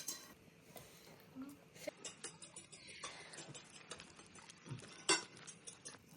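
A few sparse, light clicks and clinks of utensils against dishes, the loudest about a second before the end.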